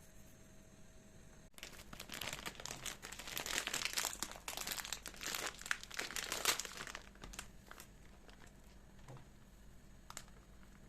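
Packaging crinkling as it is handled, starting suddenly about a second and a half in, dense and crackly for about five seconds, then a few scattered crackles.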